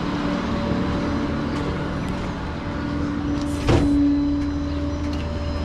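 Flatbed tow truck's engine running at low speed while reversing, a steady drone. About three and a half seconds in there is a short burst of hiss-like noise.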